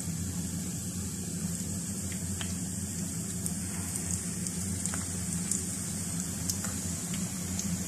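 Besan-battered stuffed green chillies frying in hot oil in a pan: a steady sizzling hiss with scattered small pops and crackles. A low steady hum runs underneath.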